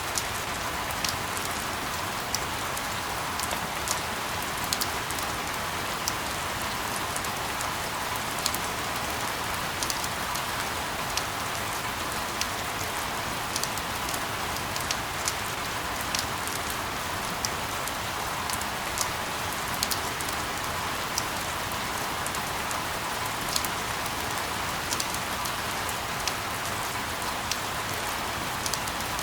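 Steady rain falling in an even hiss, with individual drops ticking sharply about once a second.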